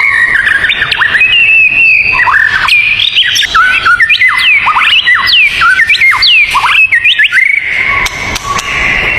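Songbirds singing: a dense run of quick, sweeping whistled notes, with a held high note near the start and again near the end.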